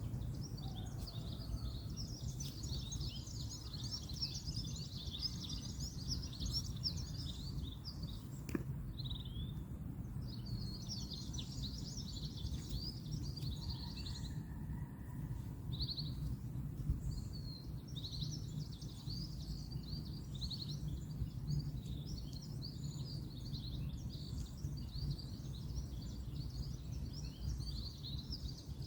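Many birds chirping and singing together without pause over a steady low rumble of distant road traffic.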